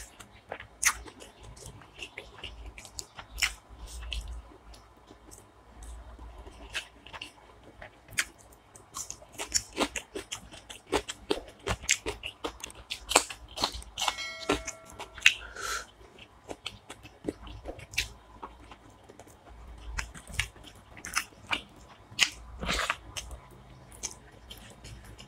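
Close-up eating sounds: chewing and crunching of rice and chicken curry, with many short wet mouth clicks and smacks.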